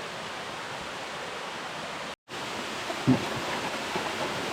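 Waterfall pouring into a pool: a steady rushing of water, broken by a very short dropout just after two seconds in, with a brief low thump about three seconds in.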